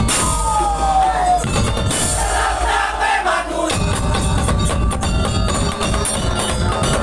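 Madurese daul music: a percussion ensemble played loud through a sound system, with shouting from the crowd. A falling tone glides down at the start, and the low drums drop out for about two seconds before coming back in.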